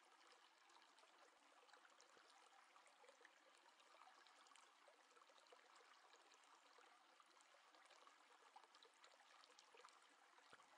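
Near silence: a faint steady hiss with scattered tiny ticks.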